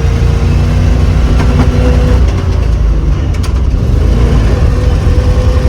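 Old three-ton grain/gravel truck's engine running under load in second gear, a steady low rumble whose note climbs slowly as the truck gathers speed.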